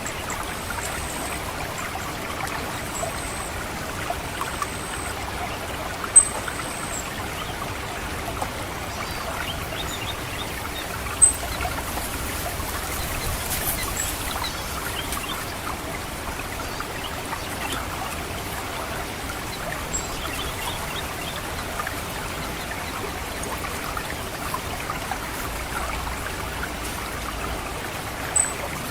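Water trickling steadily through a rice paddy, with an orange-headed thrush's high, thin 'cit' calls. The calls repeat several times in the first seven seconds, then come singly now and then, a few of them sharply louder.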